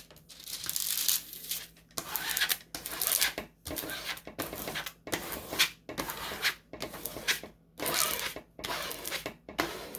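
Plastic packaging of a diamond-painting kit crinkling and rustling as it is handled and opened, in irregular bursts with short pauses between them.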